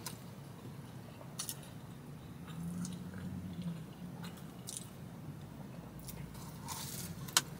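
Quiet close-up mouth sounds of a person chewing a flaky cherry turnover pastry, with a few soft crunchy clicks now and then.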